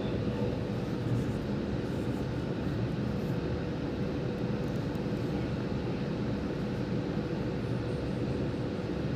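Steady running noise inside a moving electric suburban train: an even low rumble with a faint constant hum.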